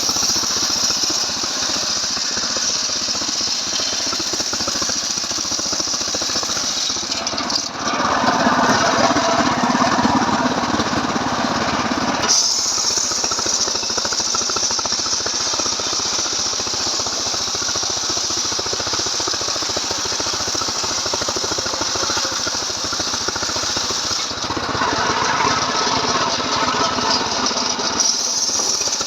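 Stihl MS 381 two-stroke chainsaw running without a break while cutting wood. Its sound changes twice, from about 8 to 12 seconds and again from about 24 to 28 seconds, as the cut and the load shift.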